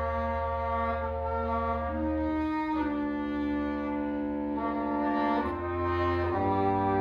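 Wind quintet playing sustained chords over a held low bass note, the harmony shifting about two and a half seconds in and again near the end.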